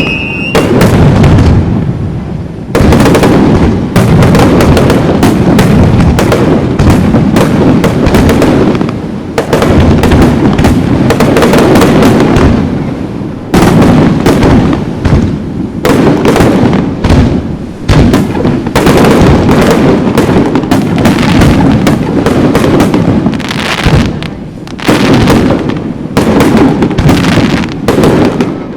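Aerial fireworks shells bursting in a dense, near-continuous barrage of loud booms and crackling reports, with brief lulls every few seconds.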